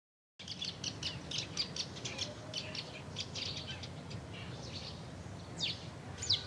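Birds chirping: many quick high chirps over a low steady background rumble, starting suddenly a fraction of a second in, with a couple of louder falling whistles near the end.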